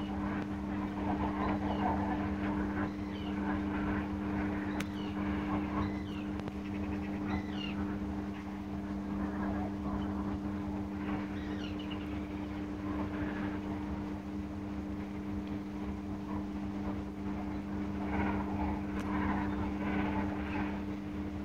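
A steady motor hum with two level tones. Faint, scattered short calls can be heard over it.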